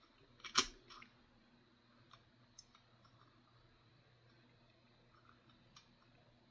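Coins being handled: one sharp click about half a second in, then a few faint light clicks and ticks, as nickels are picked up and set down.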